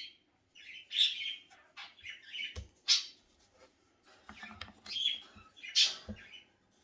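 Pet cockatiels and a budgie chirping and calling in short bursts throughout, with a soft knock about two and a half seconds in.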